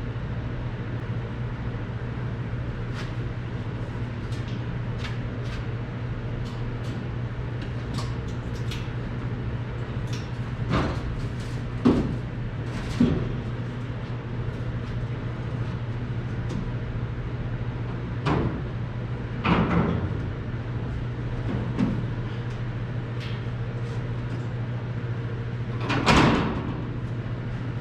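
Metal truck headache rack knocking and clanking as it is lifted onto a pickup bed and set in place: scattered single clunks, the loudest near the end, over a steady low hum.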